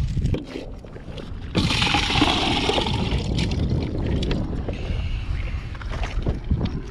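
Wind buffeting the microphone as an uneven low rumble. About a second and a half in, a hissing rush of noise lasts about a second and a half.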